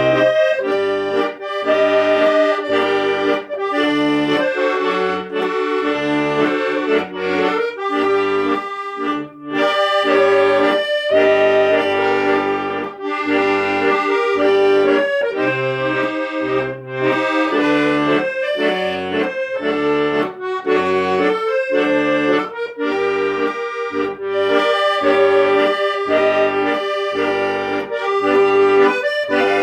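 Accordion music: a sustained, reedy melody over low bass notes and chords that repeat in a steady rhythm.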